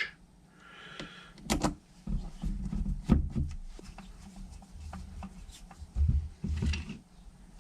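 Screwdriver and small screws being worked into motorcycle carburettor bodies, with several sharp metallic clicks and low knocks from handling the carb bank on the bench.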